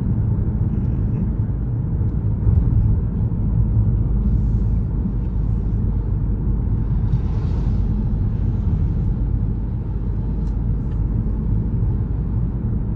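Steady low road and engine rumble of a moving car, heard from inside the cabin, with brief hissing swells about four and seven and a half seconds in.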